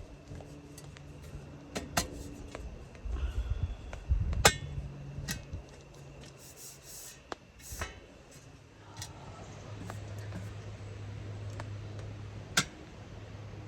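Clicks, knocks and light clinks of camping gear being handled and assembled, with two sharper knocks about four and a half seconds in and near the end. From about nine seconds in, a steady low hum, like a distant vehicle, runs underneath.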